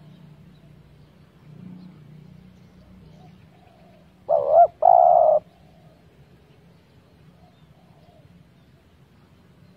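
Spotted dove cooing: one loud two-note coo about four seconds in, a short sliding note then a longer held one, with fainter coos from farther doves before and after.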